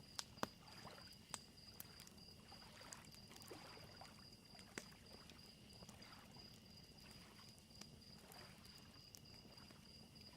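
Faint lakeside soundscape: small waves lapping softly, a wood fire crackling with a few sharp pops, the loudest near the start, and crickets chirping steadily throughout.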